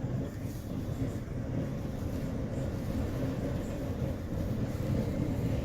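Blizzard wind buffeting the microphone: a steady low rumble.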